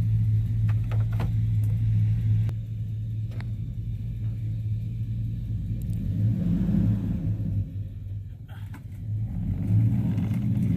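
Truck engine running with a steady low rumble as it pulls on a car, easing off about two and a half seconds in, picking up again around the middle, dipping briefly and coming back up near the end.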